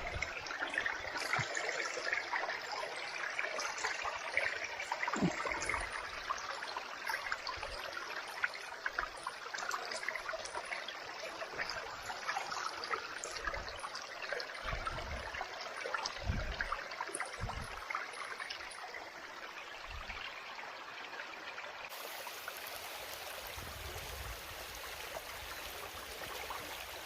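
Shallow mountain stream running and trickling over rocks, with a few dull low thumps in the middle and a change in how the water sounds near the end.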